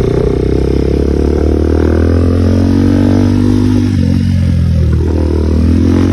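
KTM Duke 390's single-cylinder engine running under way, easing off about halfway through and then picking up revs again. The bike has an exhaust leak where the pipe joins at the bottom.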